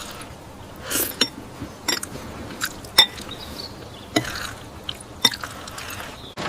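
About a dozen irregular light clicks and taps, a few with a brief clinking ring, over a soft steady hiss.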